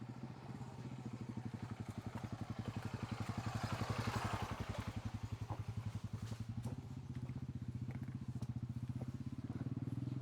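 Motorbike engine running with a rapid, even putter. It grows louder to a peak about four seconds in, then settles to a steady running note.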